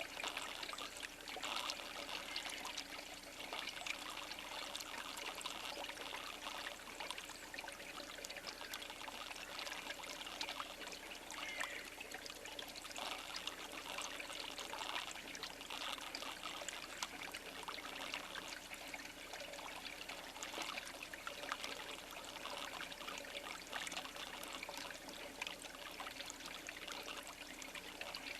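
Steady trickle of running water, with many small ticks and splashes.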